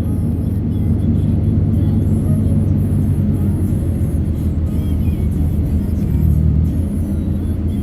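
Steady low rumble of a car driving, heard from inside the cabin, with music playing from the car stereo.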